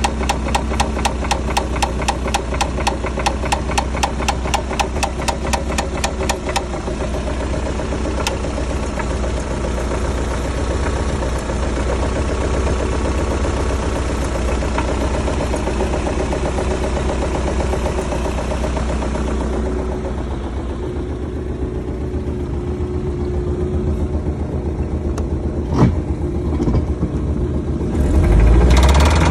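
1999 MerCruiser 3.0 four-cylinder marine engine running with a regular knock, about three a second, plainest in the first six seconds. The engine then runs on more evenly, with a single sharp click later and a rise in engine sound near the end. The cause of the knock is unknown to the owner.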